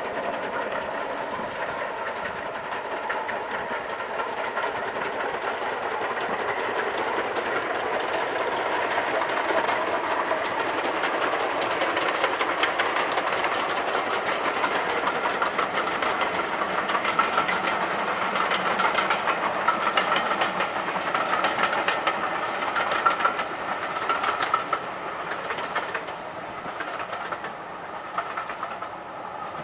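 Steam-hauled train running past, with the wheels clicking over the rail joints and a steady rush of noise. It grows louder toward the middle and fades near the end.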